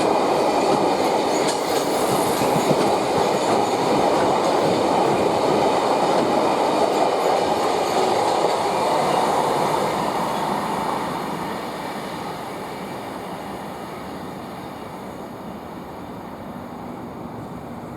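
Empty stone wagons of a freight train rolling past, wheels clattering over the rail joints. The noise holds steady, then fades away from about eleven seconds in as the train moves off.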